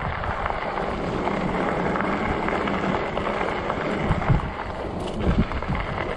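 Wind rushing and buffeting over the microphone while riding a fat-tire e-bike in strong gusts: a steady roar with low rumbling swells.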